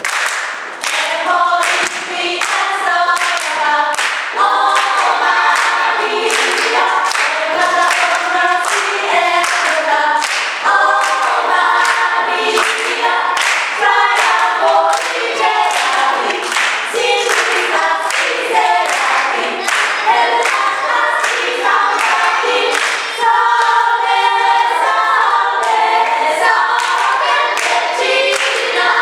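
Gospel choir singing, backed by steady rhythmic hand claps on the beat.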